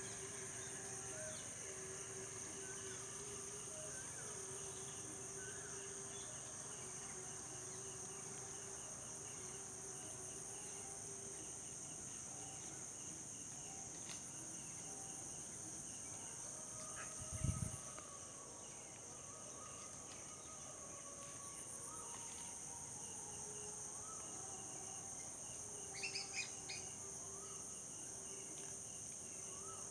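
Steady high-pitched drone of an insect chorus, with faint scattered bird calls and a short cluster of chirps near the end. A single low thump about halfway through.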